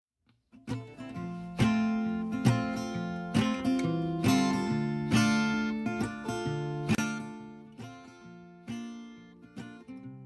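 Acoustic guitar music, chords strummed and plucked about once a second, starting about half a second in and growing quieter towards the end.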